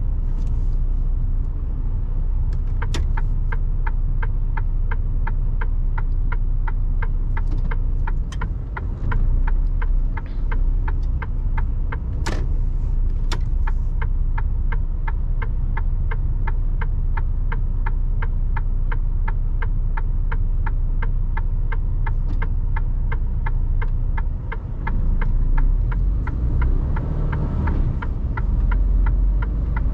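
Mercedes Actros truck driving, its engine and road noise making a steady low rumble heard from the cab. From about three seconds in, a turn-signal indicator ticks at a steady two to three clicks a second and stops near the end. There are a couple of louder knocks about twelve seconds in.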